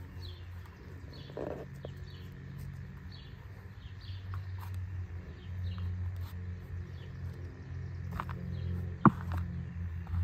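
Small birds chirping in short repeated notes over a steady low rumble, with faint rustling of hands working potting soil around tree roots and one sharp click about nine seconds in.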